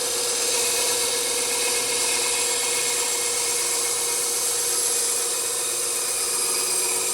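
Bandsaw running with its blade cutting steadily through wood: a continuous rasping hiss over the steady hum of the saw.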